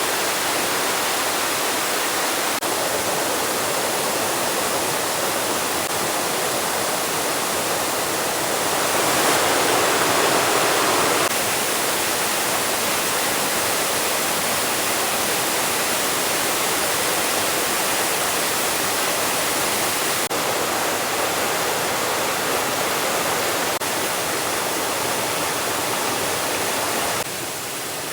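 Steady rushing of a waterfall, swelling louder for a couple of seconds about nine seconds in and dropping in level shortly before the end.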